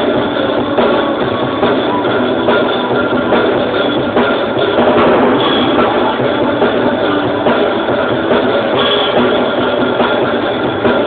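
A live band rehearsing a rock-style song, drum kit and guitar playing together, loud and continuous.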